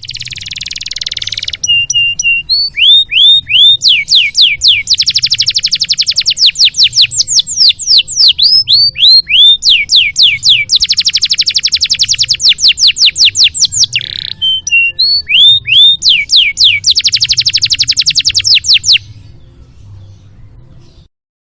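Domestic canary singing: fast rolling trills alternate with series of quick downward-sweeping whistled notes, with a faint low hum beneath. The song stops about 19 seconds in.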